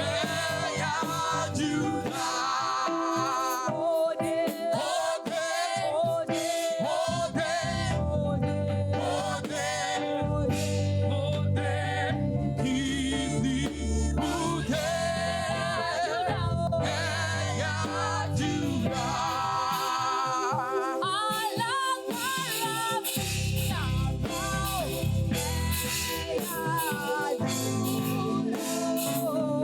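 Church choir singing gospel praise music with instrumental accompaniment; a low bass part comes in about a quarter of the way through.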